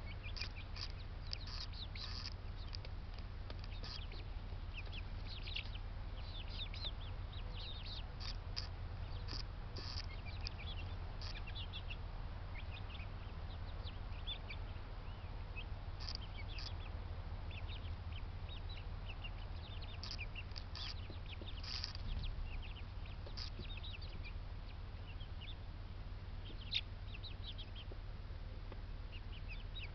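Backyard poultry calling: many short, high chirps and clucks scattered throughout, over a steady low hum. A single sharp tap near the end.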